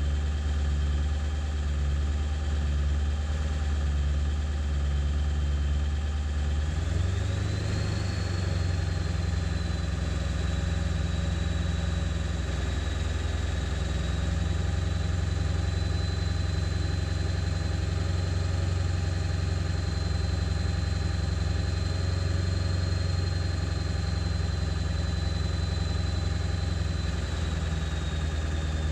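Ford 7.3 Powerstroke V8 turbo diesel idling rough, still running poorly after a new ICP (injection control pressure) sensor. It starts with an uneven low pulse. About a quarter of the way in the idle rises a little, with a high whine climbing in pitch, and near the end it settles back down.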